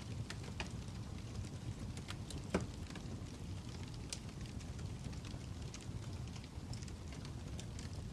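Crackling fire: a steady low burning sound with scattered sharp crackles and pops, the loudest about two and a half seconds in.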